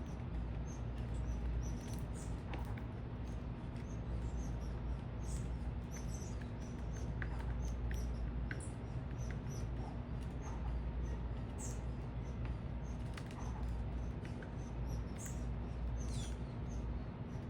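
Small birds at a feeder giving many short, high chirps at irregular intervals, over a steady low hum.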